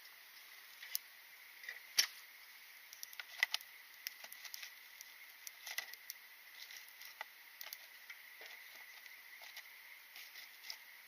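Wood fire crackling in a makeshift rocket-stove-style burner: irregular sharp snaps and pops, the loudest about two seconds in.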